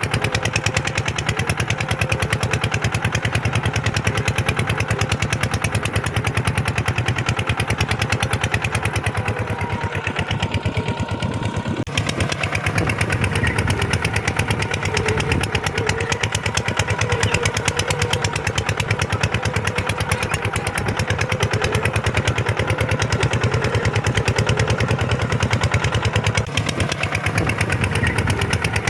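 Kubota tractor's diesel engine running steadily with a rapid, even chugging beat.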